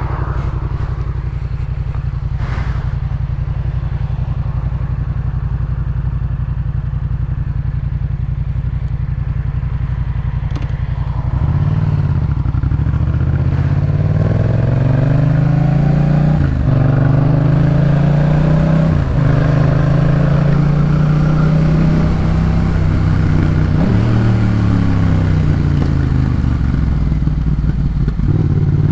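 Yamaha MT-07's 689 cc parallel-twin engine breathing through a Jeskap K4 full aftermarket exhaust, idling steadily, then about eleven seconds in pulling away and accelerating. The pitch climbs and drops sharply several times as the rider shifts up through the gears.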